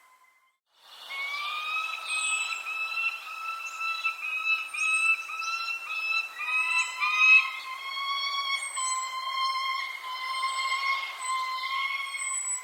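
Birds calling: short, high, falling chirps recur every second or two over a long, steady whistled call, which comes as joined repeated notes at first and then holds one pitch. The sound starts after about a second of near silence.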